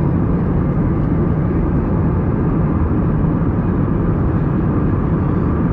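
Steady cabin noise inside an Airbus A321-200 airliner during its descent: the even rush of engines and airflow, heaviest in the low range.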